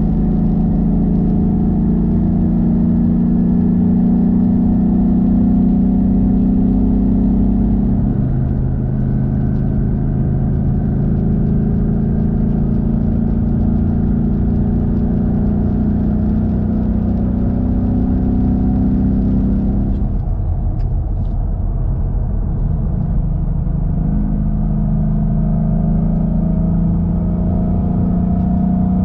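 2016 Ford Mustang GT's 5.0 V8 running through a Roush cat-back exhaust while driving, a steady deep engine note. The note changes pitch about a third of the way in, falls away around two-thirds of the way through, then builds again with a slowly rising pitch.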